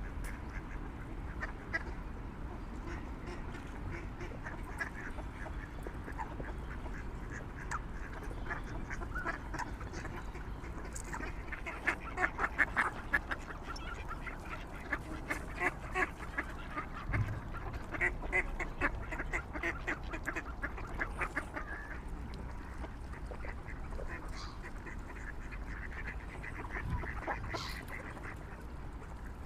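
Waterfowl calling, many short, repeated quack-like calls in quick runs, busiest through the middle, over a steady low rumble.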